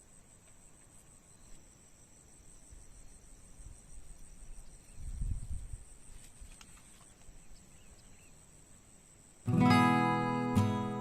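Faint, steady high-pitched insect trilling, with a soft low thud about five seconds in. Strummed acoustic guitar music starts suddenly near the end and is much louder.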